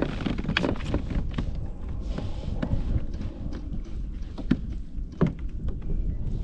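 Low rumble of wind on the microphone with scattered knocks and clicks from a plastic sit-on-top fishing kayak and its gear being handled, the sharpest knock a little over five seconds in.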